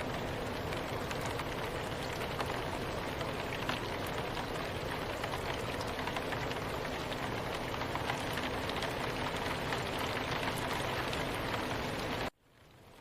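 Steady soft rain, a dense even hiss of falling drops with fine drop ticks. About twelve seconds in the sound cuts out abruptly, then fades back in.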